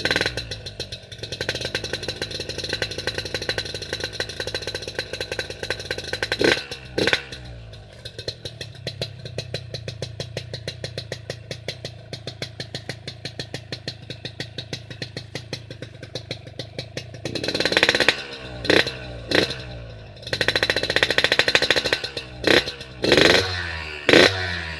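Yamaha RX-King two-stroke single-cylinder motorcycle exhaust idling with a fast, even beat. The throttle is blipped into short revs twice about six seconds in, then several more times in the last seven seconds, each rising and falling quickly.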